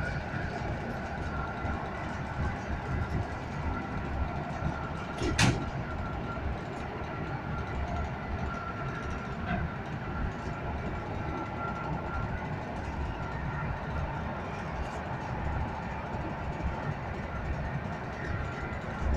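EN57AL electric multiple unit running at speed, heard from inside the carriage: a steady rumble of the wheels on the track with a faint high whine over it. A single sharp knock comes about five seconds in.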